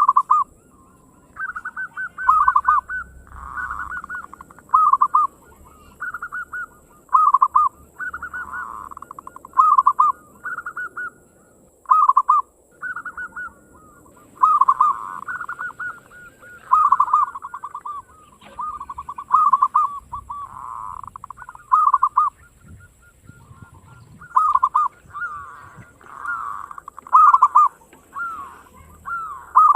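Zebra doves (perkutut lokal) calling: rapid, rolling coo phrases that repeat with a new burst every second or two, some overlapping.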